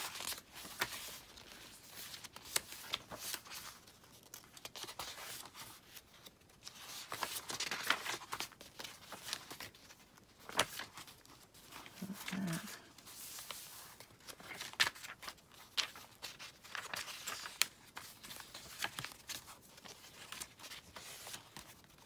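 Paper rustling and crinkling as a handmade junk journal's pages, tags and inserts are handled and turned, with many short irregular crackles and flicks.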